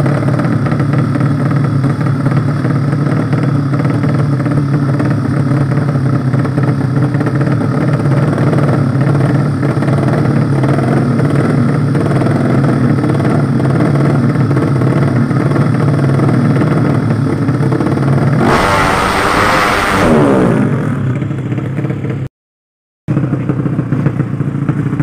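Drag-race motorcycle engines running at a steady pitch. About eighteen seconds in, a louder motorcycle sweeps past, its pitch falling. The sound cuts out for under a second shortly after.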